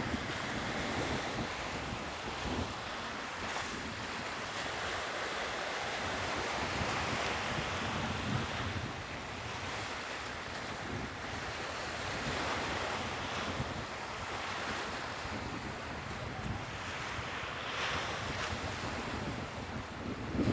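Sea waves washing ashore: a steady wash of surf that swells and eases slowly, with wind buffeting the microphone.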